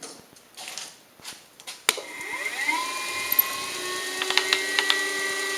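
Milling machine spindle switched on with a click about two seconds in. It winds up in pitch and settles into a steady motor whine, with a few sharp ticks near the end. A few soft handling knocks come before it starts.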